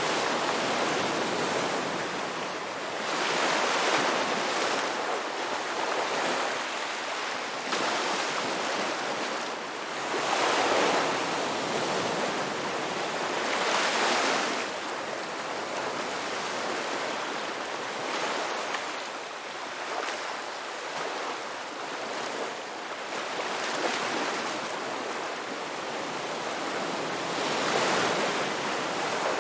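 Sea waves breaking and washing on a shore, a steady surf hiss that swells with each wave every few seconds.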